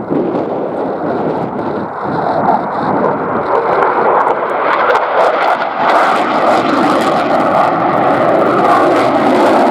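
Jet noise from a Eurofighter Typhoon's twin EJ200 engines as it flies a low display pass. It grows louder about halfway through and takes on a crackling edge.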